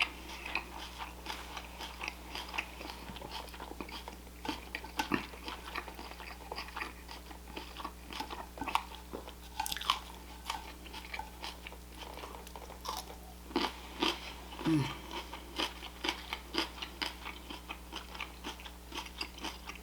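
Close-miked chewing and biting of pan-fried chicken, with many short crunches and wet mouth clicks scattered throughout.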